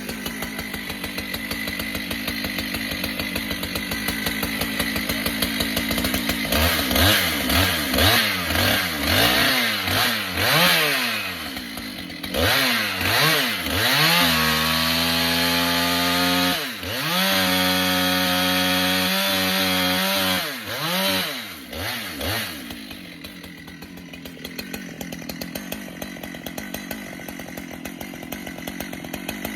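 Husqvarna 395 XP two-stroke chainsaw idling, then revved up and down repeatedly from about six seconds in and held at high revs under load for several seconds mid-way, as in a cut, before dropping back to idle near the end. It is a test cut after one side of the chain was sharpened to cure a crooked cut.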